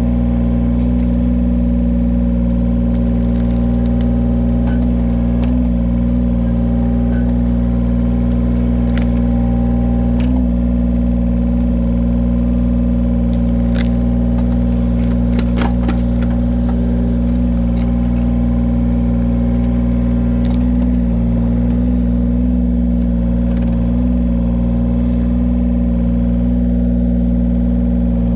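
Engine of a firewood splitting machine running steadily at a constant speed, with a few brief sharp clicks partway through.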